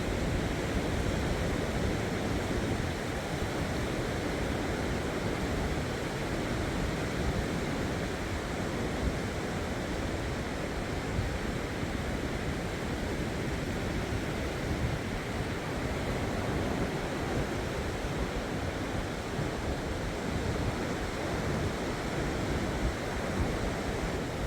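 Steady rush of sea surf on the shore, with wind buffeting the microphone.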